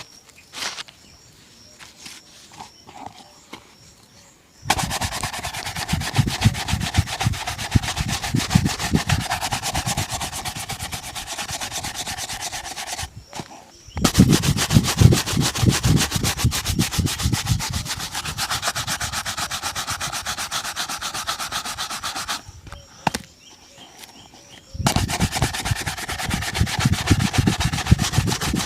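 Shoe being buffed in rapid back-and-forth strokes, a dense scrubbing rub. The strokes start about five seconds in after a few faint taps, stop briefly twice in the middle, and resume each time.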